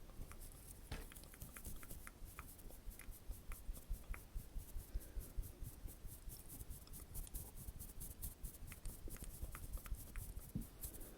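Rapid, light close-miked tapping and crisp clicks, several a second, as an ASMR trigger.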